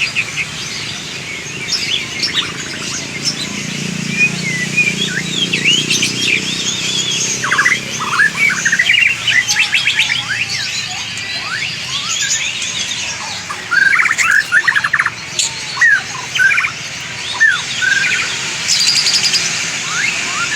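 White-rumped shama (murai batu) singing a long, varied run of quick whistles and chirps, with a low rumble under the song in the first half.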